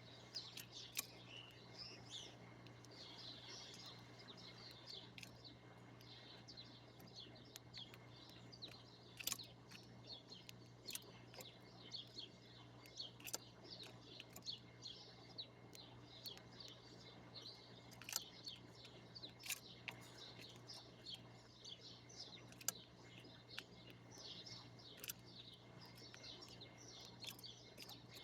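Small birds chirping in a dense, continuous chatter of short high chirps, with a few sharper louder chips now and then, faint over a steady low hum.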